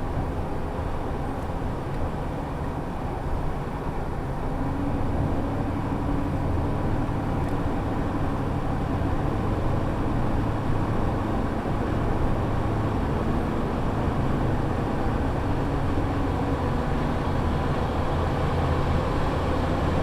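Shuttle bus driving, heard from inside the cabin: a steady engine drone and road noise. The hum shifts in pitch a few times, first about four to five seconds in, as the bus speeds up and changes gear.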